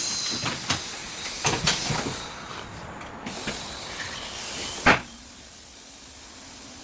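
Tyre-workshop noise: clattering knocks and clicks with hissing air, then a single sharp knock about five seconds in and a steady faint hiss after it.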